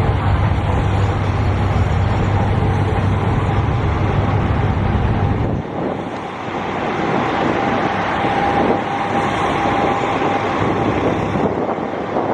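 Diesel limited-express train's engines running at the platform, a heavy low drone that drops away about five and a half seconds in. A noisy station wash remains, with a thin steady high tone a few seconds later.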